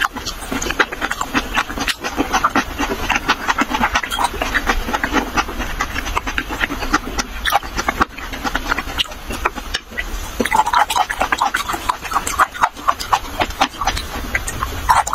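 Close-miked chewing and wet mouth smacking of someone eating raw fish slices: a fast, dense run of moist clicks and squelches.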